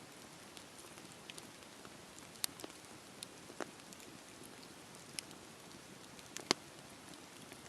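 Campfire burning: a soft steady hiss with scattered wood pops and crackles, the loudest pop a little after six seconds in.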